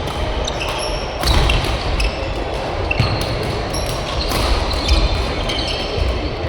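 Badminton rally on an indoor court: rackets striking the shuttlecock in sharp cracks at irregular intervals, and players' shoes squeaking briefly on the court floor.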